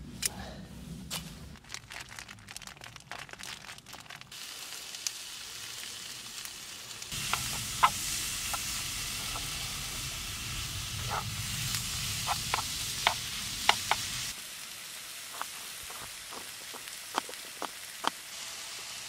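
Red pepper strips and diced chicken sizzling in a frying pan, with sharp clicks from a utensil stirring against the pan. The sizzle is louder from about seven seconds in and drops away at about fourteen seconds. Near the end a knife taps against a cutting board, chopping.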